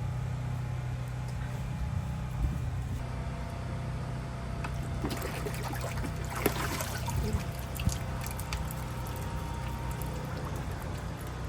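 Liquid pouring and trickling, with a cluster of small clicks and knocks partway through, over a steady low hum.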